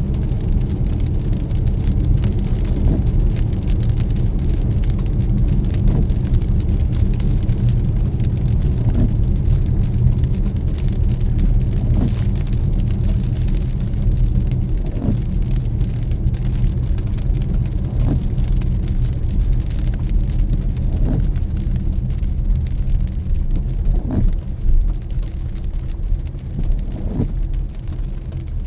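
Car driving on a wet road, heard from inside the cabin: a steady low road and engine rumble with rain hiss. A short sweep repeats about every three seconds, from the windshield wipers.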